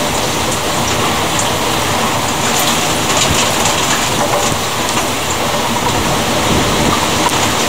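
Thunderstorm rain falling steadily: a continuous hiss with a few scattered sharp drop taps.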